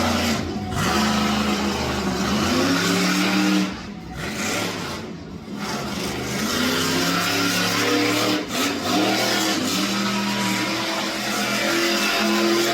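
Monster truck engine revving hard. It rises and falls in pitch with the throttle and briefly lets off about four seconds in and again about eight and a half seconds in.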